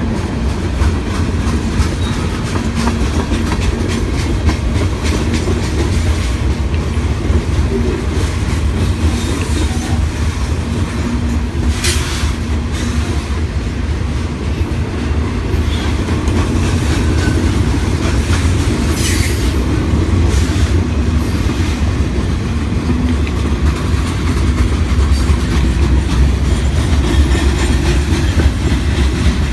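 Freight cars of a mixed freight train rolling past in a steady low rumble with wheel clatter. A few brief high wheel squeals or clanks cut through, about twelve seconds in and again around twenty seconds.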